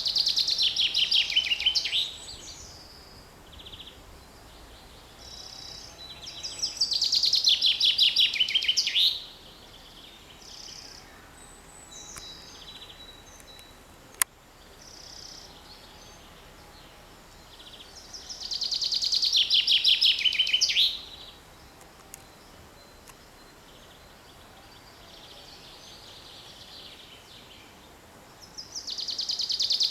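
Common chaffinch singing: a loud, quick run of notes falling in pitch and ending in a flourish, repeated four times at intervals of about ten seconds. Fainter calls of other birds sound between the songs.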